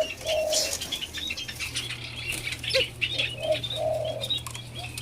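White-eared brown doves fluttering and pecking at feed on a hand, with scattered clicks and wing flutters. There are a few short low call notes and many quick high chirps from birds.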